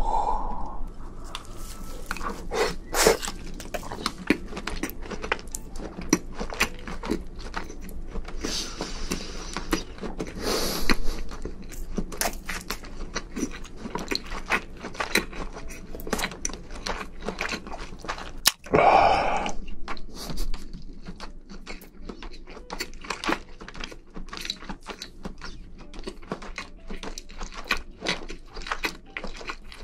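A person chewing cooked shrimp close to the microphones: a steady run of wet smacks and small crunching clicks, louder about 3, 11 and 19 seconds in.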